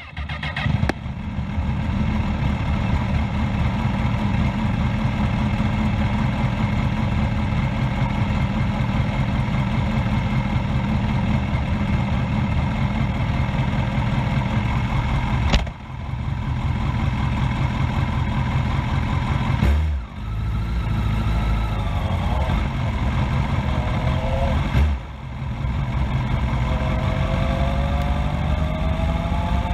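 Race motorcycle engine starting with a sudden jump in level and then running steadily, heard loud through its exhaust right beside the microphone. The level drops briefly three times, and the engine note rises several times in the second half as the bike gets under way.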